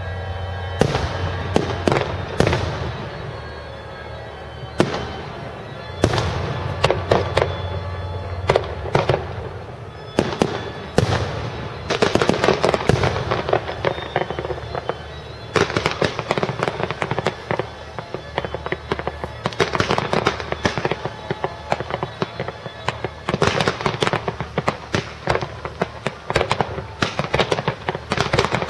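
Fireworks display: a continuous run of shell bursts and crackling. The bangs are spaced out at first and come several a second from about twelve seconds in.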